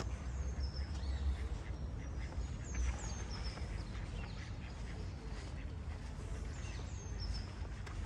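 Birds chirping with short, high, repeated calls over a steady low rumble of town ambience.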